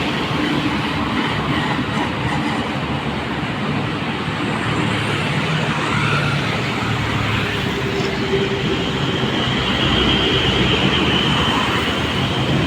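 Steady road traffic noise: vehicle engines passing by, with a steady high whine joining in during the second half.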